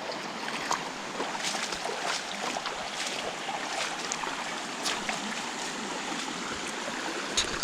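Shallow mountain creek running over rocks, with scattered small splashes and knocks of someone wading across it, and a louder splash or knock near the end.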